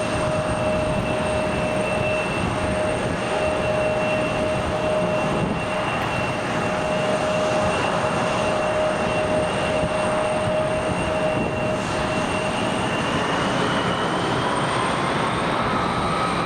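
Jet airliner engines running steadily, a broad roar with a steady whine over it; the whine rises in pitch near the end.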